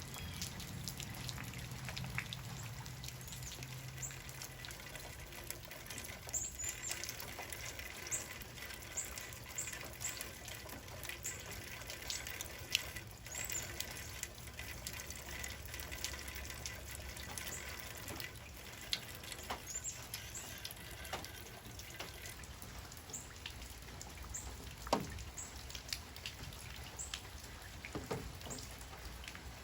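Rain falling, with many separate drops striking close by as sharp ticks over a steady hiss.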